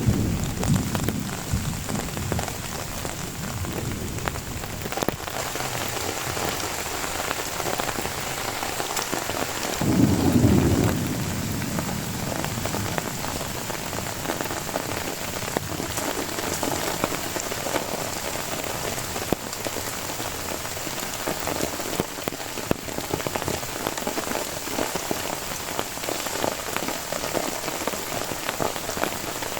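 Heavy rain falling steadily, a dense patter of drops. A short low rumble swells and fades about ten seconds in.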